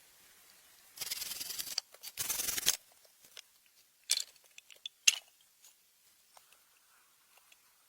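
Two short rasping strokes, like a zip or tearing, about a second and two seconds in, followed by two sharp clicks and a scatter of faint ticks from handling.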